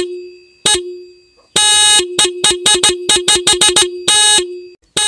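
Motorcycle horn honked in a pattern: a short beep, a long blast, a quick run of about nine short beeps, another long blast and a final short beep.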